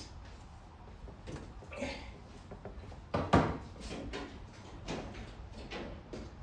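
Scattered clicks and knocks of hand tools against metal engine parts during bolt torquing, the loudest a sharp knock about three seconds in.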